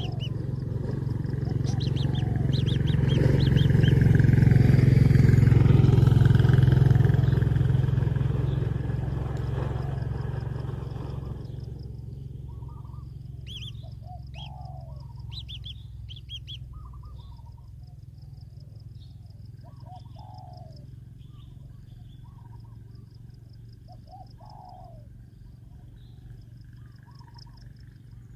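A loud low rumble swells, peaks and fades away over about twelve seconds. Short bird chirps come and go throughout and stand out once the rumble has faded.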